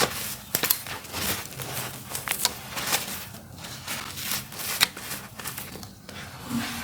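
Dry, crunchy earthy dirt being crumbled: a continuous gritty crackling broken by sharp cracks every second or so.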